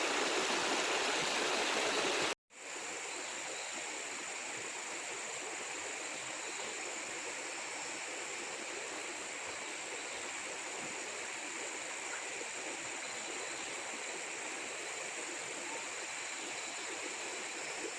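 Steady rushing of flowing water, a rainforest stream. About two seconds in it cuts out for a moment and comes back quieter, with less low rumble.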